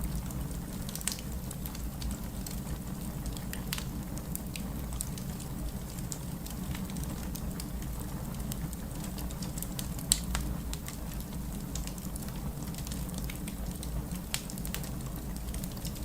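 Wood fire crackling, with scattered sharp pops (the loudest about ten seconds in), over a steady low rush of heavy rain.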